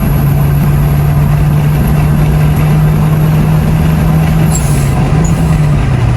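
Toyota four-cylinder car engine pulling hard at steady high revs during a drag run, with road and wind noise. Its note drops to a lower pitch near the end.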